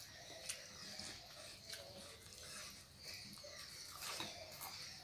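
Faint chewing and lip smacks of people eating with their hands, with a few short sharp smacks scattered through, one about half a second in and another around four seconds in.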